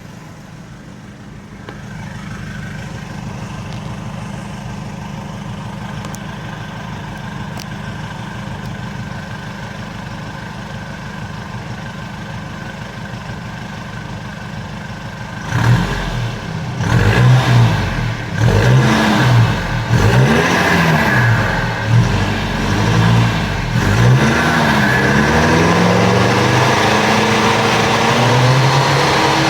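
Exhaust of a Nissan Navara pickup with a cat-delete pipe and a stainless steel (SUS304) muffler without fiberglass packing. The engine idles steadily, then from about 15 seconds in is revved in repeated blips, pitch rising and falling, and is held at higher revs near the end.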